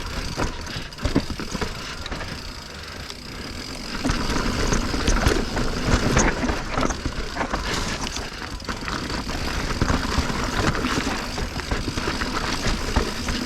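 Mountain bike riding down a rough technical trail: wind rumbling on the microphone, tyres over rocks and roots, and the bike rattling with many short knocks. It gets louder from about four seconds in.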